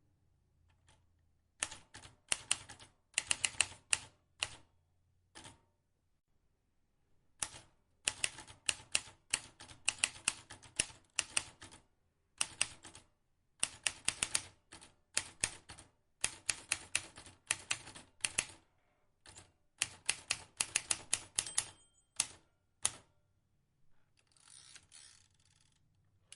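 Vintage manual typewriter being typed on: runs of sharp key clicks several seconds long, broken by short pauses. A short scraping sound comes near the end.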